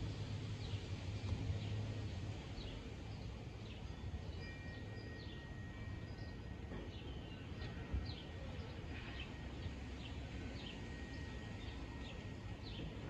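Small birds chirping over and over, short quick downward notes. Under them, the faint low drone of the departing twin-engine Cessna 402C dies away within the first couple of seconds.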